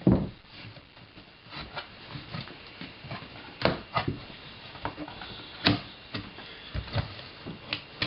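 Cardboard packaging being handled and opened: irregular knocks, scrapes and rustles, with the loudest thump right at the start.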